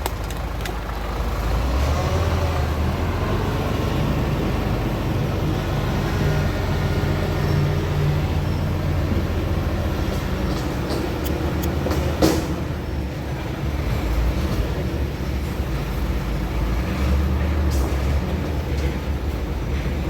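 Isuzu Giga concrete mixer truck's six-cylinder diesel engine running steadily, with one short, sharp noise about twelve seconds in.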